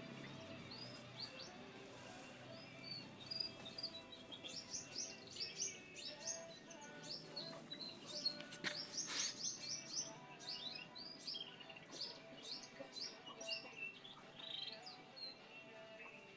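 Small birds chirping in a rapid, overlapping chatter of short, high notes, busiest through the middle and thinning out near the end.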